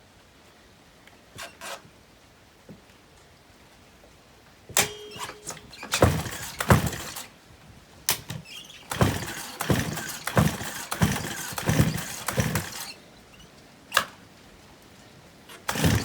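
Stihl 028 AV Super chainsaw being pull-started by its recoil rope: a run of pulls, the engine turning over in quick strokes but not catching, from about five seconds in to about thirteen seconds in. It will not start even after a shot of starting fluid. Two single knocks follow near the end.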